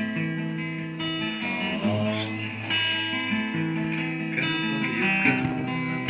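Guitar music: the chords of a song's instrumental introduction, notes changing about every second.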